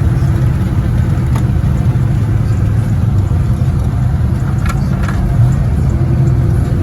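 Car engine running with a steady, loud low rumble, with a few light clicks in the middle.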